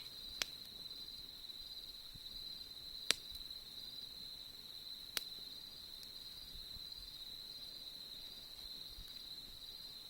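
Autumn crickets chirring in a steady high trill, with three sharp pops from the crackling wood campfire, the middle one the loudest.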